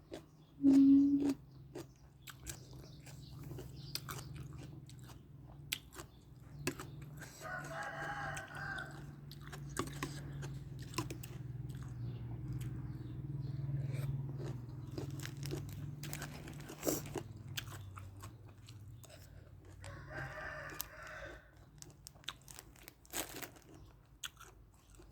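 Close-up chewing and crunching of crisp food, with a rooster crowing twice in the background. A brief loud low tone sounds about a second in, over a steady low hum.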